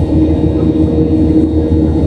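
Boeing 737-700 cabin noise during the climb: its CFM56-7B turbofans and the airflow make a steady drone with a low rumble and a hum.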